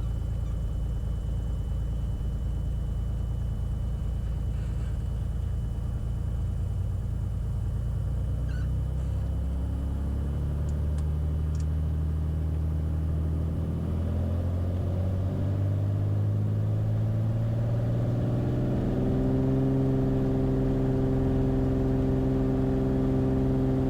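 Beechcraft Bonanza's piston engine and propeller running up for takeoff: the drone rises steadily in pitch as power comes in from about a third of the way through, then holds steady at takeoff power for the last few seconds.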